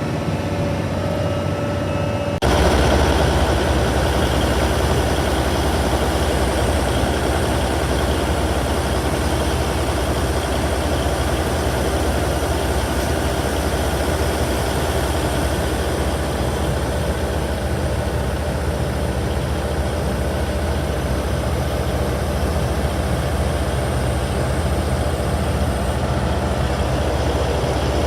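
Diesel engine of a Liebherr R984 hydraulic excavator running steadily. A little over two seconds in, the sound suddenly gets louder and fuller in the low end, then holds steady.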